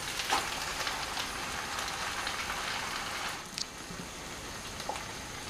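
Whole stuffed chicken sizzling in masala gravy in a frying pan, a steady hiss with a few taps of the spoon and spatula against the pan; the hiss eases slightly about three seconds in.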